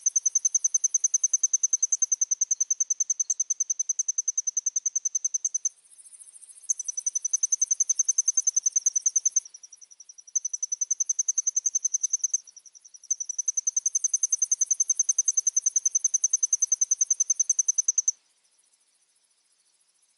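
A cricket-like insect trilling on one high, rapidly pulsed note, in long runs broken by three short pauses, then stopping about eighteen seconds in. A fainter trill at the same pitch carries on behind it.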